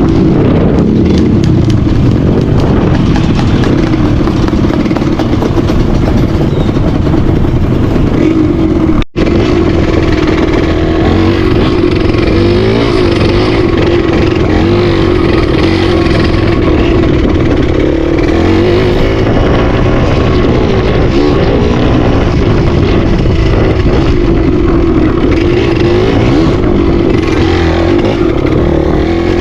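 Dirt bike engine running continuously under varying throttle, its pitch wavering up and down a little, with a brief break about nine seconds in.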